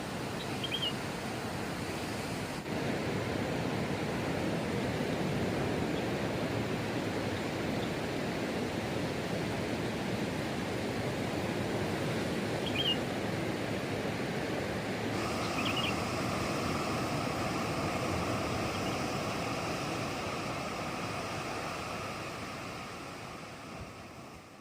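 Steady rushing night ambience of a beach campsite in light drizzle, with three brief high chirps. About fifteen seconds in, a steadier higher hum joins, and the sound fades out at the end.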